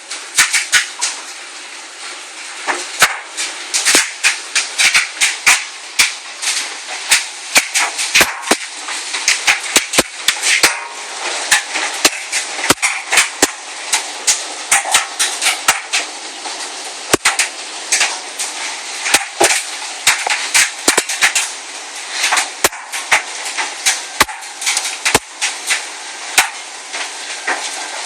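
Large hailstones, golf-ball to baseball size, striking the house in a dense, irregular clatter of sharp hits over a continuous hiss, with several strikes every second.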